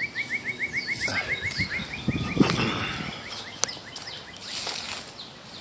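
A songbird singing a fast trill of short slurred notes, about ten a second, thinning out and fading after about two seconds. A brief rustle, like a step in brush, comes about two and a half seconds in.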